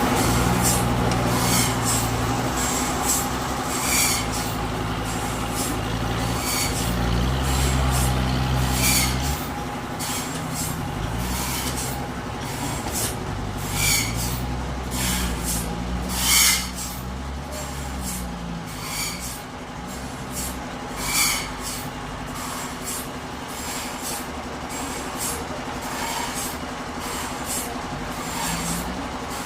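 Forklift engine running with its revs rising and falling as it lifts heavy logs, louder through the first half. Short sharp knocks come every few seconds, the loudest about halfway.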